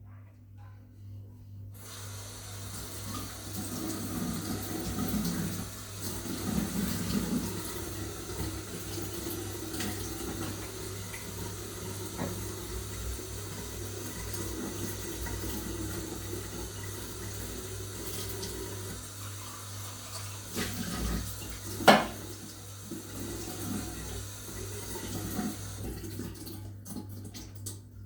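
Water running from a tap into a sink, turned on about two seconds in and shut off near the end, with the flow splashing louder now and then as things are rinsed under it. A single sharp knock about three quarters of the way through.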